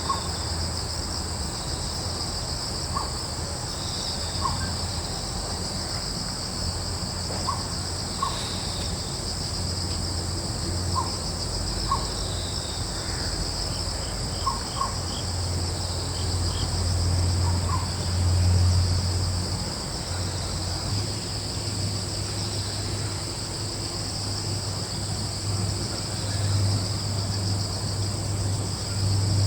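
Steady, high-pitched chorus of crickets and other insects, with short bird chirps scattered through the first two-thirds and a low, steady rumble underneath.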